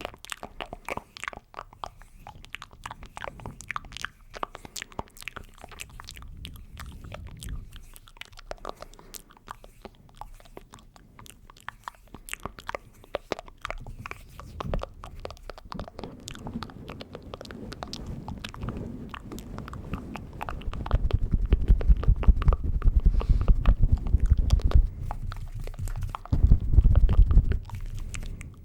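Close-microphone ASMR mouth and hand sounds: a dense stream of wet clicks and smacks. About two-thirds of the way in it grows louder, with a low rumbling under rapid clicking, then drops for a moment and returns near the end.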